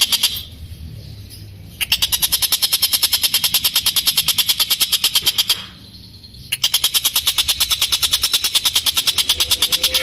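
A tengkek buto kingfisher giving its long, harsh chattering call: very rapid, evenly spaced rasping notes in long runs. The bird breaks off twice, briefly just after the start and again past the middle.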